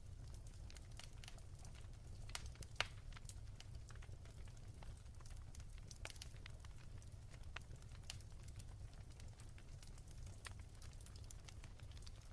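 Firewood burning in a fireplace, crackling softly with scattered small pops and one louder pop about three seconds in, over a low steady rumble.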